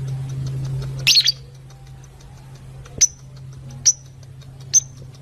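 Fischer's lovebirds chirping: a quick burst of high, shrill chirps about a second in, then single sharp chirps roughly once a second. A steady low hum runs underneath and drops away after the first burst.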